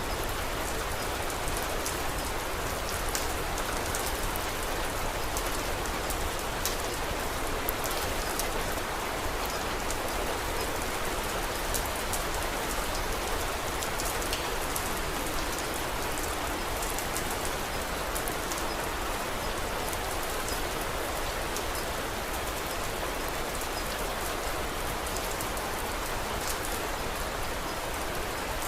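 Steady rain falling, with scattered light crackles and ticks from a log fire mixed in.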